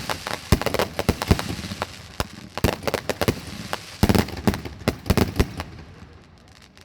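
Fireworks exploding in a rapid, uneven string of sharp bangs and crackles, thinning out and dying away near the end.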